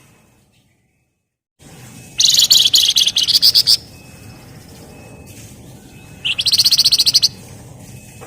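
Javan fulvetta (flamboyan) singing its dense rattling trill: two bursts of rapid, evenly repeated high notes, the first about a second and a half long and the second about a second.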